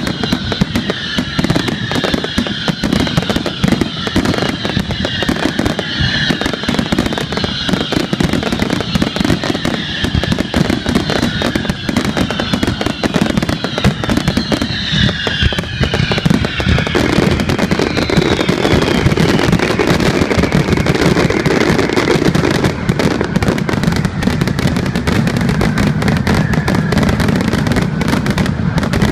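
Fireworks display: a dense, continuous barrage of bangs and crackling, with many short falling whistles through roughly the first half.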